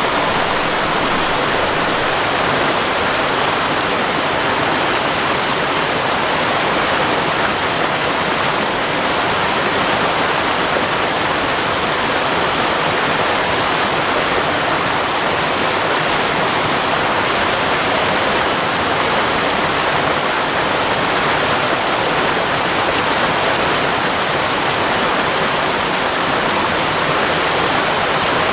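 Waterfall pouring steadily, a constant loud rush of falling water.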